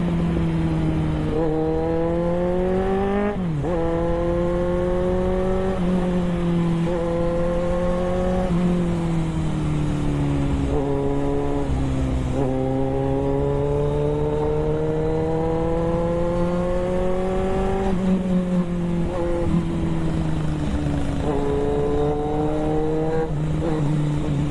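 Superbike engine running at speed. Its pitch climbs steadily as it accelerates and drops sharply at each gear change, several times over, with wind rush underneath.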